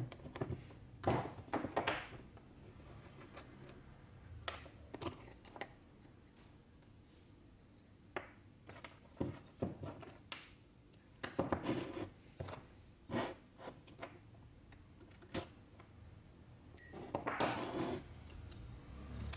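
Hand tools and small metal carburetor parts clinking, knocking and scraping at irregular intervals, some knocks ringing briefly.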